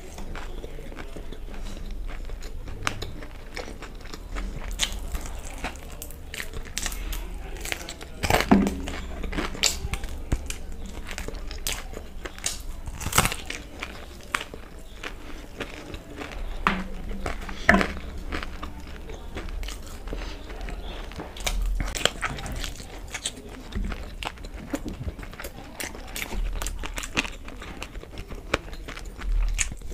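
Close-miked chewing and biting of batter-fried chicken lollipops: soft crunches, wet mouth sounds and many small clicks, with a few louder bites scattered through.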